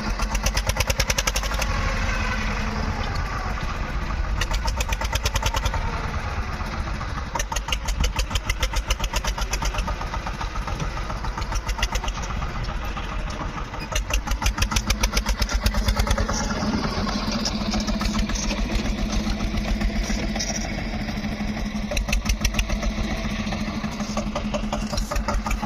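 Tractor diesel engine running with a steady, rapid knock, swelling in level several times as it works a front loader.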